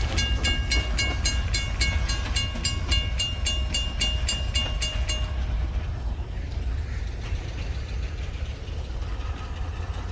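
Railroad grade-crossing warning bell ringing at about three strokes a second, then stopping about five seconds in as the crossing clears. A steady low rumble runs underneath.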